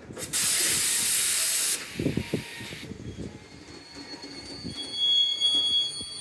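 Freight train of Network Rail bogie open box wagons rolling past: a rumbling clatter of wheels on the rails. A loud hiss lasts about a second and a half near the start, and a high-pitched wheel squeal sets in for the last couple of seconds.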